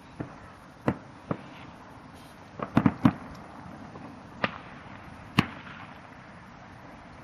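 Fireworks exploding: a string of sharp, irregularly spaced bangs, with a quick cluster of three or four about two and a half to three seconds in.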